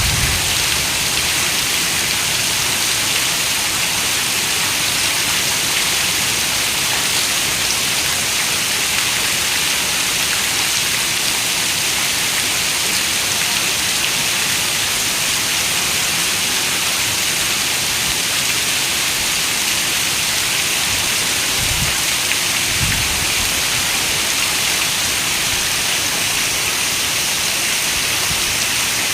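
Steady, even rainfall, a constant hiss with no let-up, with two brief low thumps about three-quarters of the way through.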